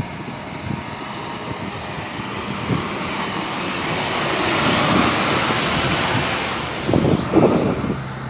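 A road vehicle passing close by: a rush of road and engine noise that swells to a peak about five seconds in and fades away, with a few low rumbles near the end.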